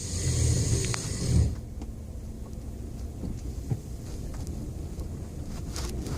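Hissing, static-like noise from the rear of a 2004 Ford F150 pickup, over the truck's low running rumble; the hiss cuts off suddenly about a second and a half in, leaving only the lower rumble. The hiss comes only sometimes while driving and stops when the truck stops; its cause is unknown.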